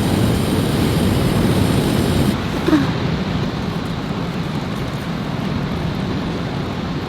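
Steady rushing noise of wind and heavy rain outdoors, with a brief squeak nearly three seconds in.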